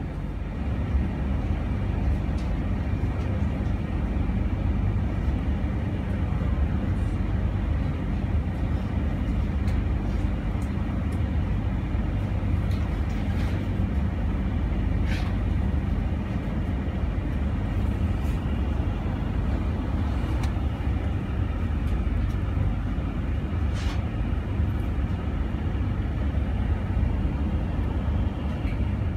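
Steady low rumble and hum inside a passenger train carriage standing at a platform and starting to move off, with a few faint clicks.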